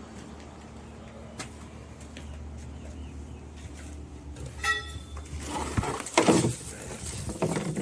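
Junk being handled and loaded: a short squeak about halfway through, then rustling and several knocks, loudest just past the middle, over a steady low hum.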